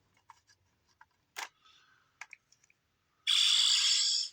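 Plastic clicks and handling of a Power Rangers Lightning Collection power morpher toy as the Mastodon power coin is fitted and twisted in, then a loud, harsh, hissy sound about a second long near the end that cuts off suddenly.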